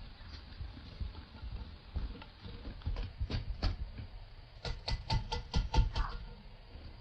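A run of sharp knocks or taps: a few scattered ones at first, then a quick cluster of about seven a little over halfway through, the loudest of them.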